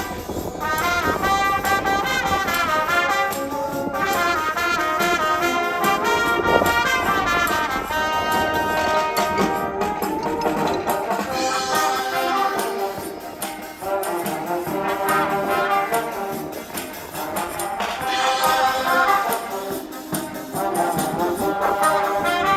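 Student wind band playing a piece live, with brass carrying the tune.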